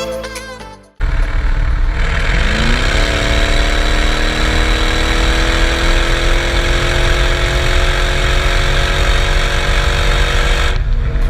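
Straight-piped Mercedes ML500 V8, mufflers removed, pulling hard at high speed over heavy road and wind noise. Its exhaust note climbs quickly about two seconds in, then keeps rising slowly as the car gains speed, and cuts off suddenly near the end.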